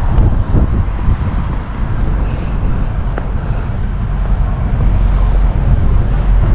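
Steady low rumble of vehicle noise, with wind buffeting the microphone.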